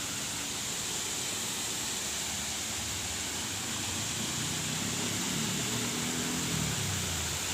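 Steady rushing of falling water from a waterfall. A low droning hum, like a motor, rises about four seconds in and fades near the end.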